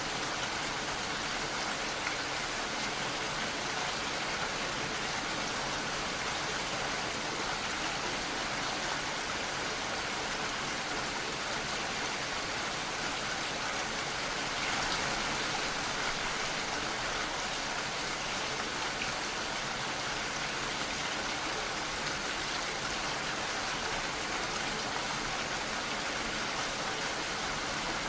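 Steady rain falling, an even hiss of many drops, swelling slightly about halfway through.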